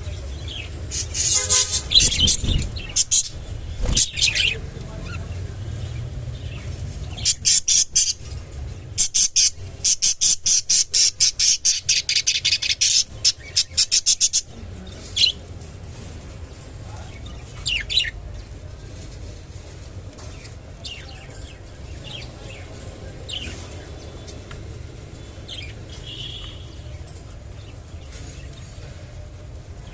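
Budgerigars chirping and squawking: loud bunches of sharp calls near the start, then a fast run of repeated chirps in the middle, then only occasional single chirps.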